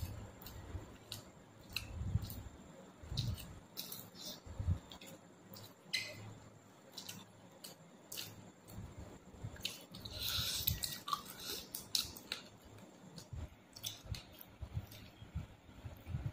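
A man eating rice and duck curry with his hand: close chewing and wet mouth sounds, with scattered soft clicks and squelches as his fingers mix rice on a metal plate.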